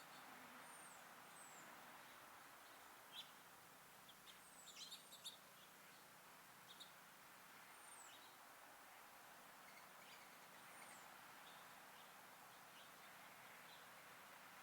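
Small songbirds at a backyard feeder giving faint, thin, high call notes that slur downward, with a few sharp clicks and chips, strongest about three to five seconds in. Under them is a steady outdoor hum.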